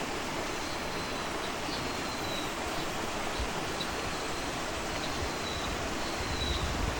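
Countryside nature ambience: a steady rushing wash of sound, with faint, short, high thin notes now and then over it.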